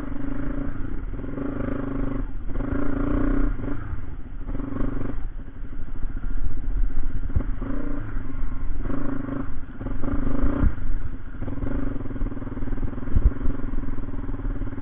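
Motorcycle engine running on the move, its note dropping and picking up again several times as the throttle is eased and opened, with a few knocks near the end.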